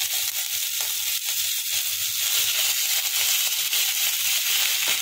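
Garlic, ginger and green chillies sizzling steadily in hot desi ghee in a nonstick kadhai, the start of a tadka, as they are stirred with a wooden spatula.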